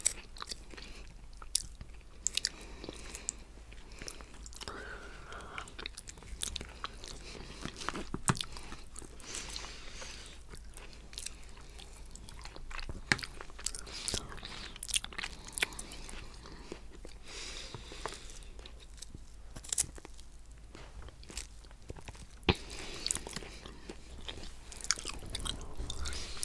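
Close-miked eating sounds of coconut cheesecake: wet chewing and smacking mouth sounds with scattered sharp clicks, and the crunch of coconut flakes.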